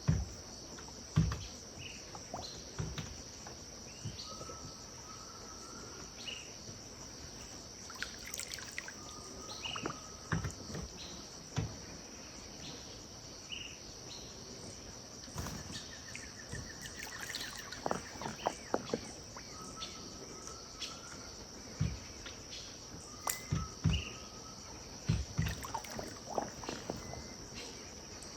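Riverbank evening ambience: a steady high insect chorus, with short bird calls repeating every second or two and a brief trill about halfway through. Scattered low knocks throughout.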